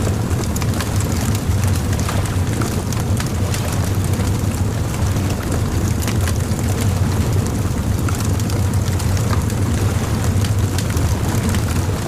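Bonfire crackling, with frequent sharp pops and snaps of burning wood over a steady low rumble.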